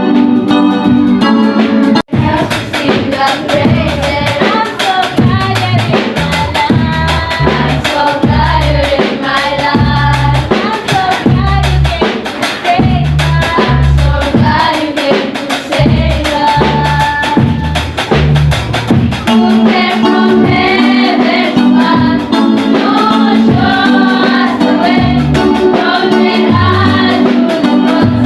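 Live gospel song from a church group: several voices singing over keyboard, with drums and bass keeping a steady beat. The sound drops out for an instant about two seconds in.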